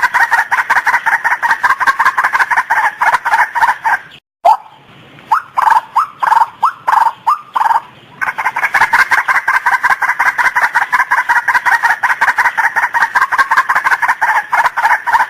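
Female white-breasted waterhen (ruak-ruak) calling: a fast run of repeated croaking notes, about five a second, breaks off about four seconds in. Slower single upward-sweeping notes follow, two or three a second, before the fast repeated calling resumes at about eight seconds.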